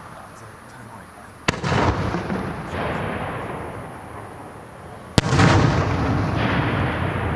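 Two aerial firework shells bursting about three and a half seconds apart. Each is a sharp bang followed by a long, rolling echo that fades slowly.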